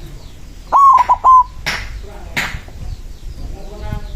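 A zebra dove (perkutut) singing one cooing phrase about a second in: a held note, two short clipped notes and a closing note. Two short, loud hissy bursts follow, with faint chirping of small birds in the background.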